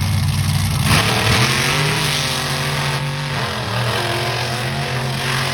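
Monster truck engine running, then revving up hard about a second in and holding at high revs.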